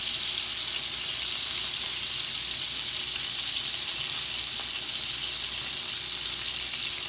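Thick steaks searing in oil and butter in a hot skillet, a steady sizzle, with a brief clink about two seconds in.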